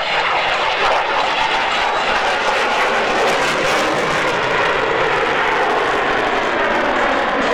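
Lockheed Martin F-22 Raptor jet fighter at high power, its twin Pratt & Whitney F119 turbofans giving a loud, steady jet noise.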